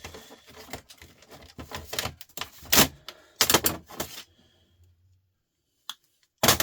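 Small metal parts and hand tools being handled while a TV/DVD unit is stripped for scrap: a series of sharp clicks and clatters, with the loudest clacks about three seconds in, again half a second later, and near the end.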